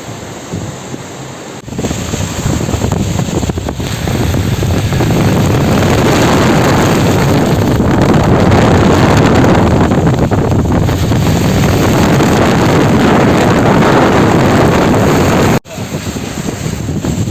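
Loud rushing of a flooding wadi's water mixed with wind buffeting the microphone. It swells about two seconds in and cuts out abruptly for a moment near the end.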